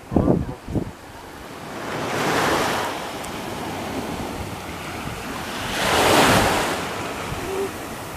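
Sea waves washing ashore, two swells about four seconds apart, each rising and falling away, with wind buffeting the microphone in a few short bumps during the first second.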